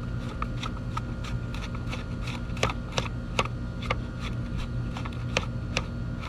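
Irregular light clicks and taps of plastic string-trimmer head parts being handled and taken apart, a few louder ones near the middle, over a steady low hum.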